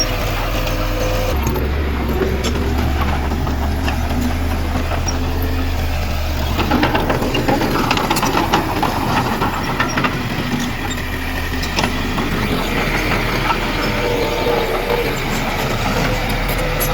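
Heavy diesel earthmoving machinery running with a steady low engine drone, with a stretch of clattering and knocks in the middle.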